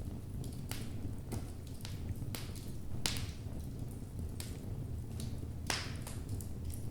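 Wood logs burning in a fireplace, crackling with scattered sharp pops over a low steady rumble. Two louder pops come about three seconds in and again near the end.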